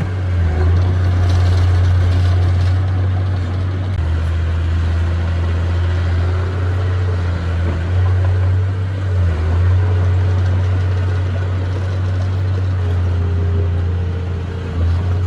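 Heavy earthmoving machine's diesel engine running with a deep, steady drone, its pitch shifting slightly a few times.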